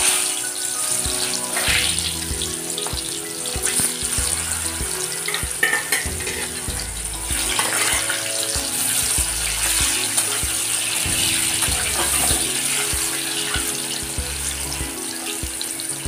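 Sliced, parboiled mushrooms sizzling steadily as they fry in hot oil in a steel kadhai, with a spatula stirring and scraping them now and then.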